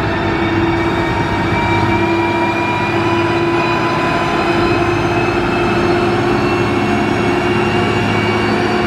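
Heavy diesel engine of a motor grader running steadily under load, its pitch rising slowly and slightly.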